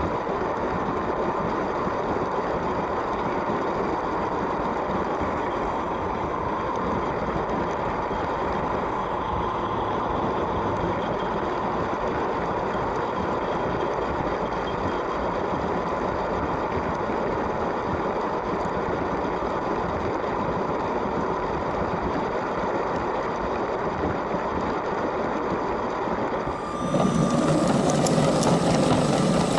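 A LEGO train's electric motor and wheels running steadily on plastic track, an even whirring noise. Near the end it suddenly becomes louder and fuller.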